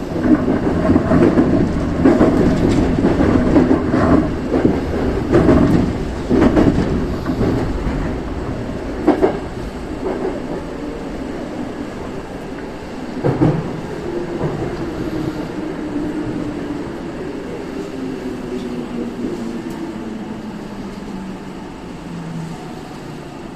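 Saitama Railway 2000 series electric train running with wheel clatter and sharp knocks over rail joints, then slowing: its motor whine sinks steadily in pitch and the running noise fades as it brakes into a station.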